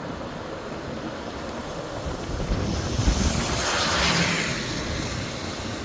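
Vehicle tyres running through floodwater on the road: a steady road-and-water rush that swells into a loud spraying hiss about halfway through, then eases off near the end.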